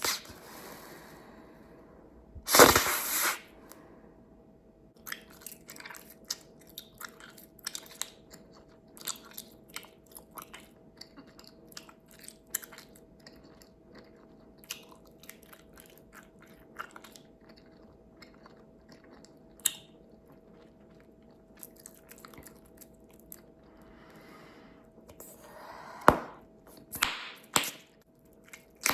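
Bubblegum being chewed close to the mic, with a long run of small wet clicking smacks. A loud sharp bubblegum pop about three seconds in, and another cluster of loud pops and snaps near the end.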